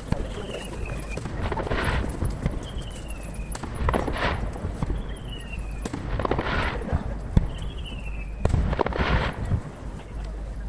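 Distant fireworks going off with sharp bangs and crackling bursts. A falling whistle-like tone repeats about every two seconds, each followed by a hissing burst.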